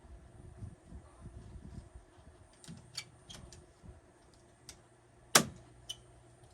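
Scattered light clicks and taps, then one loud, sharp snap about five seconds in, typical of a handheld staple gun driving a staple through screen mesh into the wooden door frame.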